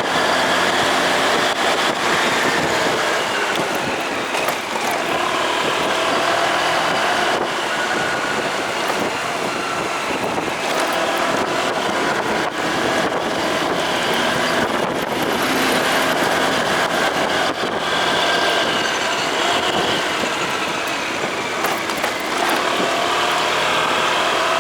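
Motorcycle engine running while being ridden, with steady road and wind noise and pitch shifting a little as the throttle changes.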